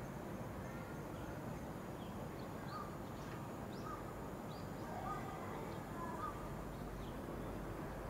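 Outdoor ambience with a steady low background hum and scattered short bird calls, several mid-pitched calls and a few higher chirps.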